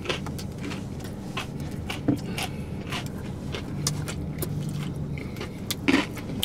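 Two people chewing crunchy fried chicken sandwiches inside a car, with repeated mouth clicks and smacks over a low steady hum. Near the end comes a short puff of breath blown out against the pepper heat.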